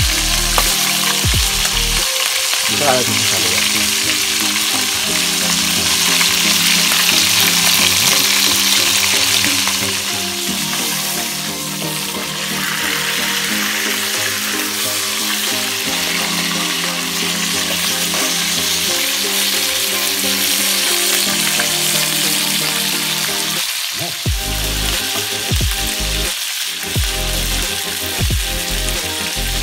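Grouper and sliced onions sizzling in hot oil in a wok, stirred with a spatula. The sizzle is loudest in the first ten seconds and eases a little after.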